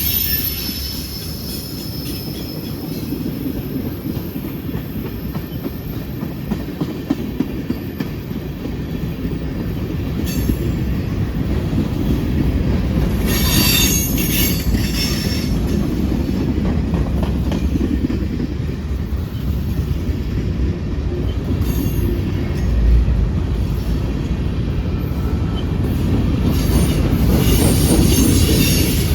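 Freight train cars rolling past on a curve, a steady rumble with a few clicks over rail joints. Wheel flanges squeal loudly in short bursts, the longest about halfway through.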